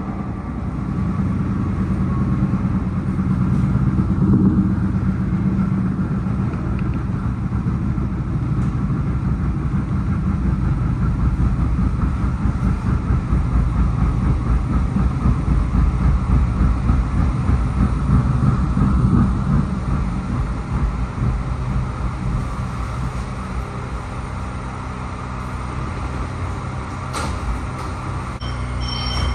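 Interior of a PATCO Speedline rapid-transit car in motion: a steady rumble of wheels on rail and traction running gear. It eases off in the last third as the train slows into a station, with a brief click shortly before the end.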